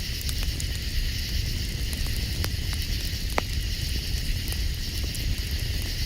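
Campfire crackling, with scattered sharp pops and one louder pop about three and a half seconds in, over a steady high hiss and a low rumble.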